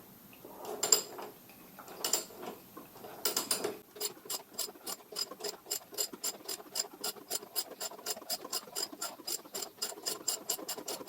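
Hand ratchet wrench working a fastener on a moped's front fork: a few metal clinks, then about four seconds in a steady run of pawl clicks at about five a second.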